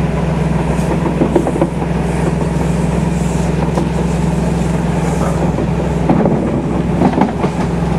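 Interior of a Class 313 electric multiple unit running along the line: a steady running hum with short clicks from the wheels on the track now and then.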